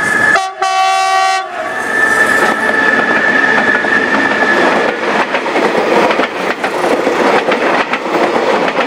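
Metrorail electric commuter train passing close by. A steady high horn tone sounds for the first five seconds, broken briefly by a different, fuller blast about half a second in. The coaches' wheels then clatter over the rail joints as the train goes by.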